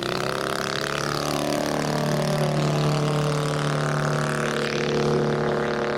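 Engine of a large radio-controlled Fly Baby model aircraft running in flight, its pitch sliding down over the first second or so and then holding fairly steady.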